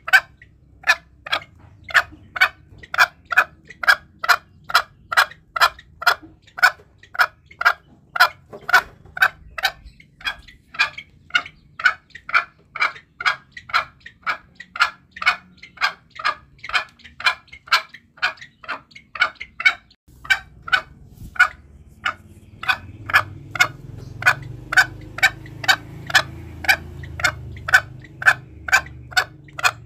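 Green junglefowl calling: short, sharp notes repeated evenly about twice a second, a lure call for hunting. A low rumble joins in the background about two-thirds of the way through.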